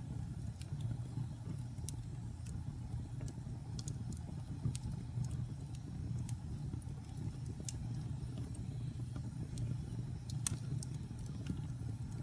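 Wood fire burning in a fireplace: a steady low rumble of the flames with frequent irregular crackles and sharp pops of burning wood.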